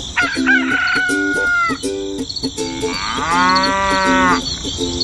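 Farm-animal sounds. A rooster crows with gliding calls in the first couple of seconds, then a cow gives one long moo about three seconds in, over a busy steady background of farmyard noise.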